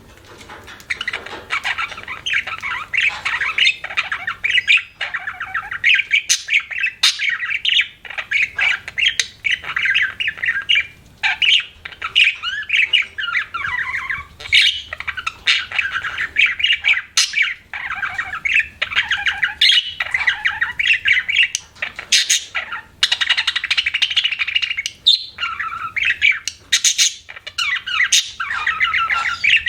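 Budgerigar warbling and chirping without a break: fast, rambling chatter mixed with short, sharp squawks.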